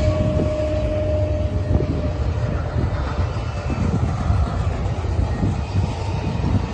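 Intermodal freight train of double-stack container and trailer cars rolling past at speed: a steady low rumble with continuous wheel clatter. Wind buffets the microphone.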